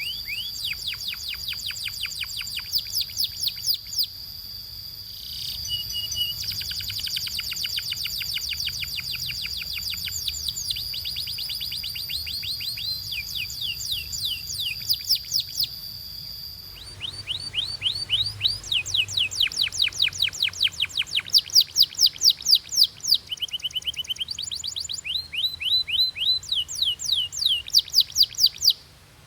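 Domestic canary singing: fast trills of rapidly repeated sweeping notes, changing pace and pitch from phrase to phrase. A steady high tone runs beneath the trills until about halfway through, then stops. After that the trills come louder and more clipped.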